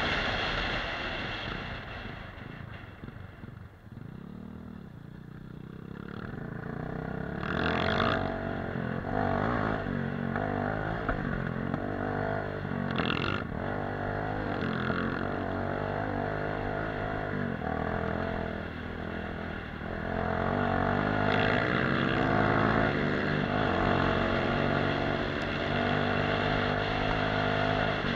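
Off-road motorcycle engines running and revving, the pitch rising and falling with the throttle. The sound dips about four seconds in, picks up again, and is loudest near the end.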